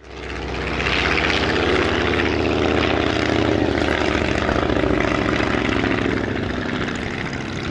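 Five-cylinder Genet radial engine of a vintage propeller aircraft running steadily, with a fast pulsing beat. It swells up within the first second and eases slightly near the end.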